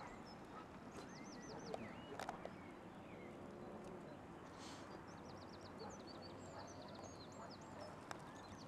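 Small birds chirping and twittering faintly over a steady hiss, with a couple of quick trills of rapidly repeated high notes about a second in and again midway.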